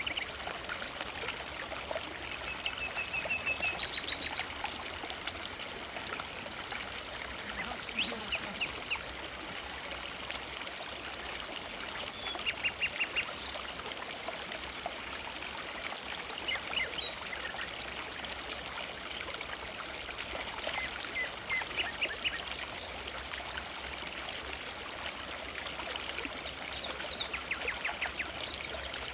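River water flowing steadily through a forest, with short bird calls and chirps breaking in every few seconds.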